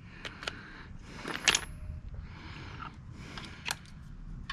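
Scattered metal clicks and clinks of hand tools and bolts being handled while engine cover bolts are removed, with one ringing metallic clink about a second and a half in.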